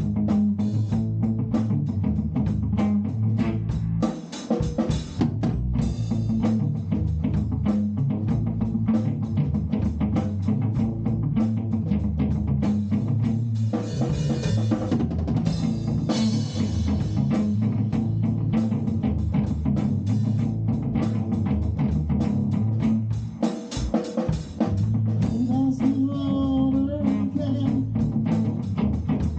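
A band playing an instrumental passage: a drum kit keeps a steady, busy beat with snare and bass drum over bass and guitar. Near the end, a wavering pitched line rises above the mix.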